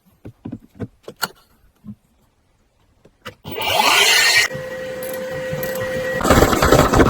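Several sharp tool clicks, then a small power tool's motor spins up and runs steadily with a whine, growing harsher and louder near the end.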